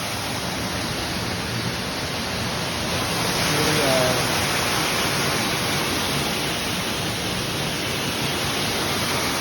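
Steady rush of a waterfall pouring through a hole in a rock overhang, running full after heavy rain.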